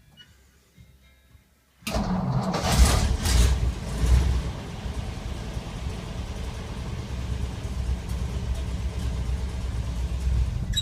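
1954 Ford F100's 239 Y-block V8 starting up about two seconds in, revving up briefly, then settling into a steady idle. It is a rough start, one that "started bad".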